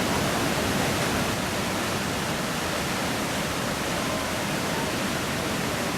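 Iguazu Falls: water pouring over the cliff in a steady, unbroken roar.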